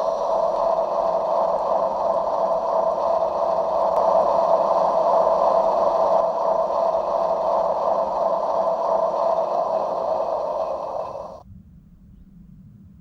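Drivetrain of a 1/11 scale RC Tatra 813 8x8 truck: electric motor and gears running steadily, then cutting off suddenly about eleven seconds in.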